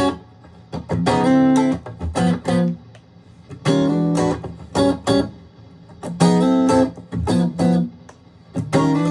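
Aria STG-series electric guitar strumming a short chord phrase: a held chord followed by a few short stabs. The phrase repeats about every two and a half seconds, with brief gaps between.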